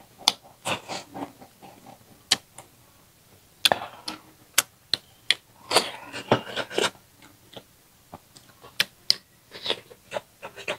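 Close-miked eating sounds: chewing rice with wet mouth smacks and lip clicks, an irregular string of short sharp clicks with a denser run of smacking about six seconds in.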